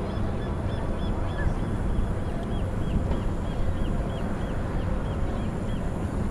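A bird's short, high chirp repeated evenly about three times a second, over steady low outdoor background noise.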